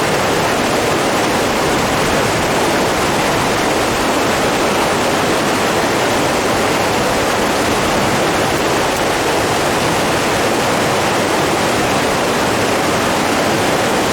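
Running water rushing steadily and evenly, with no breaks.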